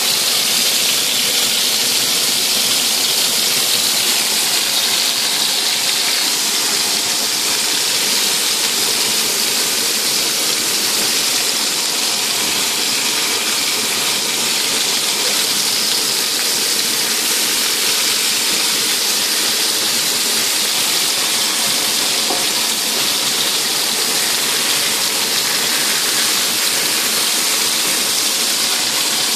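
Vegetable skewers sizzling in hot oil in a frying pan: a steady, unbroken hiss.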